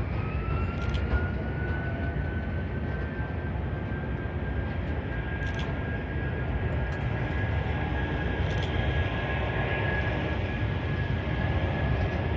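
Boeing 757's Rolls-Royce RB211 turbofan engines at takeoff power. A whine climbs in pitch over the first couple of seconds, then holds steady over a deep, even rumble, with a few faint clicks.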